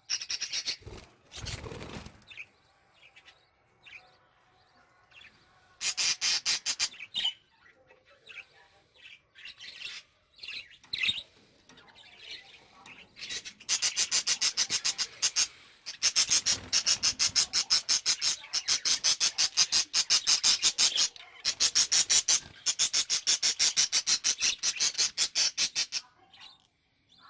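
Caged pet birds chirping in long runs of rapid, evenly repeated high calls, with a brief rustle about a second in.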